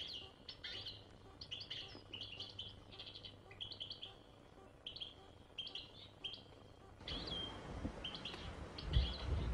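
Small birds chirping: a string of short, high calls repeating every half second or so, faint. A soft hiss joins about two-thirds of the way in.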